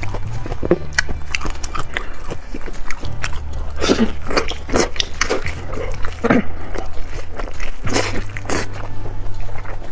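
Close-miked wet biting, smacking and chewing of sauced braised intestine, with many short mouth clicks and a few louder bites about 4, 5, 6 and 8 seconds in.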